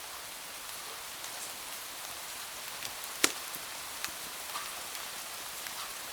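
Steady rain hiss mixed with wood fire crackling in a fireplace: scattered sharp pops, one much louder about three seconds in.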